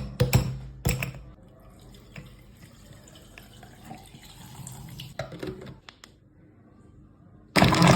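Ingredients and ice cubes knocking into a blender jar and liquid trickling in, with a few loud knocks in the first second, then a blender motor starting suddenly near the end and running steadily.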